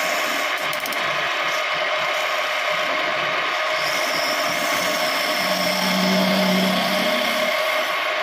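Homemade wood lathe running steadily while turning a piece of scrap wood, a continuous mechanical whirr and rattle. A low hum swells for about a second and a half in the second half.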